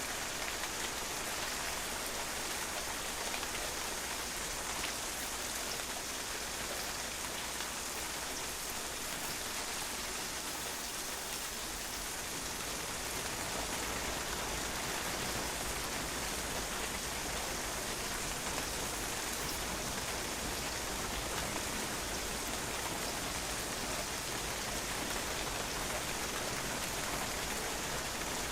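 Steady rain falling on a patio, a dense even hiss of drops with many small ticks of individual drops hitting the hard surface.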